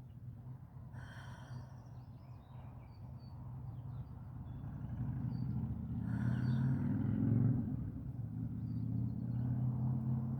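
Low rumble of a vehicle engine, growing louder about halfway through and then holding steady.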